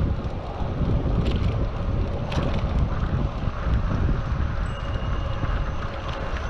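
Wind buffeting a GoPro action camera's microphone while riding a bicycle: a steady, gusty low rumble, with a couple of faint clicks.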